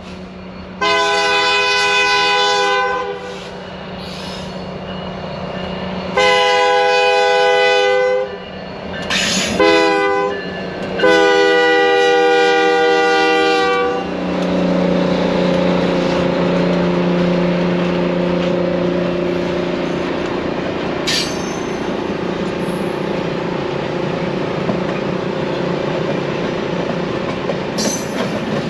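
Diesel locomotive air horn, several tones sounding together, blowing the grade-crossing signal: long, long, short, long. The Canadian Pacific diesels' engines then pass close by with a steady drone, and the passenger cars roll past with wheels clicking over the rail joints, with two brief sharp sounds near the end.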